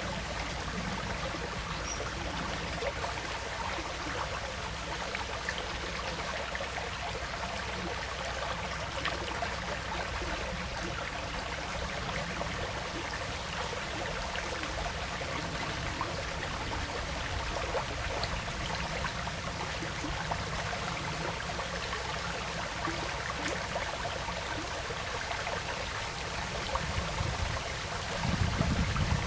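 Woodland stream flowing and trickling steadily. A brief low rumble comes near the end.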